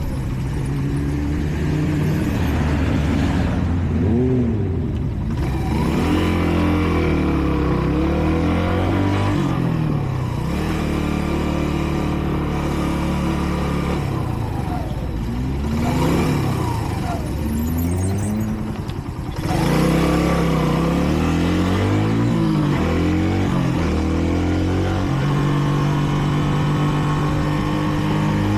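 Kreidler Dice CR 125 motorcycle's single-cylinder four-stroke engine under way, its pitch climbing as it accelerates and dropping at each gear change, with wind rush over the microphone. About two-thirds of the way in it goes quieter briefly as the throttle closes, then pulls again. The engine is still being run in, so it is held to modest revs.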